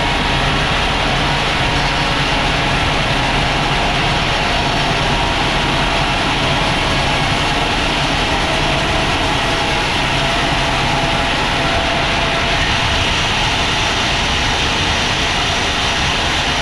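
Sawmill machinery running steadily: a loud, constant mechanical drone with a steady whine over it.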